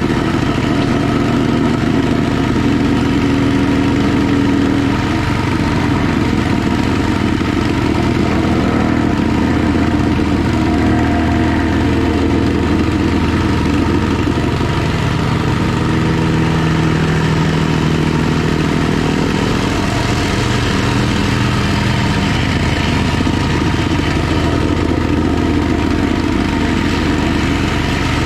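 Gasoline plate compactor running steadily while it tamps loose slag gravel, its small engine holding a constant note with slight pitch shifts through the middle.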